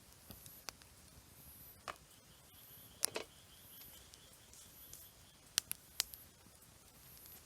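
Campfire wood crackling, with sharp irregular pops and snaps, the loudest about three seconds in and a quick cluster near six seconds in.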